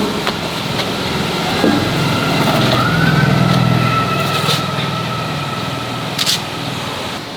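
A motor running steadily, with a low hum and a higher whine that rises a little about three seconds in, and a few short knocks, one of them near the end.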